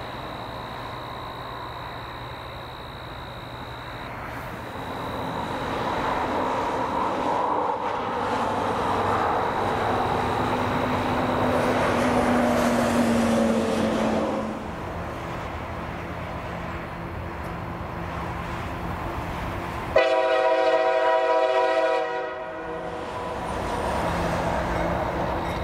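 Diesel locomotives of a freight train working hard up a grade. The rumble builds, then drops off about halfway through, and a locomotive air horn sounds once for about two seconds near the end.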